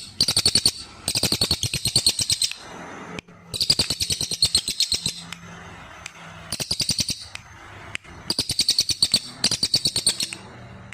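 A songbird singing fast trilled phrases of rapid high-pitched notes, each phrase about a second long, about six of them with short pauses between.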